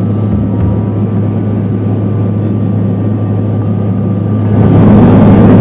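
Turboprop airliner cabin noise in flight: a steady, loud propeller drone with a constant low hum. It grows louder about four and a half seconds in.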